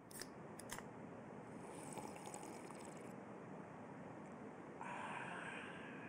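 Faint steady background hiss with a few light clicks about half a second in, and a slightly brighter hiss for about a second near the end.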